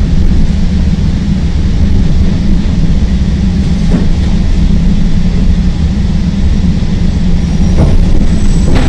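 CTA Green Line elevated train running along the track with a loud, steady low rumble, and three sharp clacks of the wheels over rail joints, about four seconds in and twice near the end.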